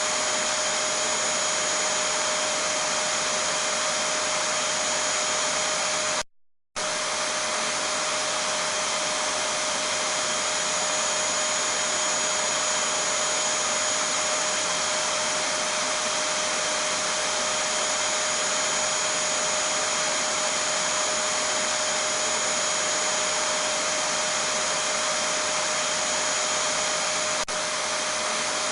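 Vacuum cleaner motor running steadily, a constant whoosh of air with a steady hum and a high whine. It cuts out completely for under half a second about six seconds in, then resumes unchanged.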